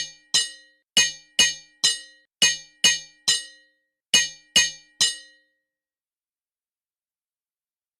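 Hammer blows ringing on an anvil: about eleven sharp metallic clangs, roughly two a second in an uneven rhythm, each with a short ring. They stop about five seconds in.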